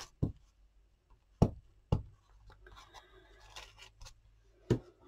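Paper being handled and pressed down onto a journal page: a few sharp taps and knocks on the tabletop, with faint rustling and scratching of paper between them.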